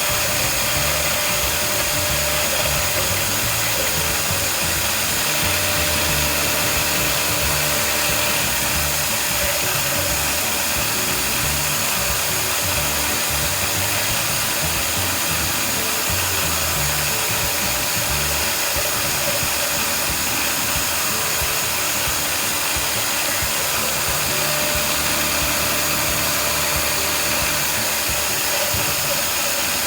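CNC router spindle running steadily with a high whine, milling POM (acetal) plastic.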